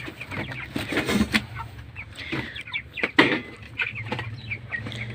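Domestic chickens clucking repeatedly while being handled for weighing on a scale, with a few sharp knocks or flaps among the calls, the loudest about three seconds in.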